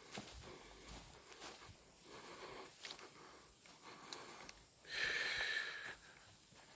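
Footsteps of a person walking outdoors under a steady, high-pitched insect drone. About five seconds in there is a brief, louder rustling or breathy noise.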